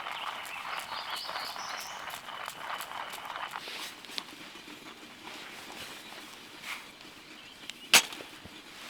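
Birds chirping in the woods over rapid irregular rustling and clicking for the first few seconds, then quieter, with one sharp knock near the end.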